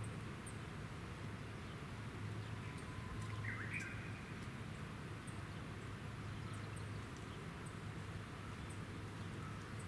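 Steady outdoor background noise with a low hum, broken by one short bird call about three and a half seconds in and a few faint ticks.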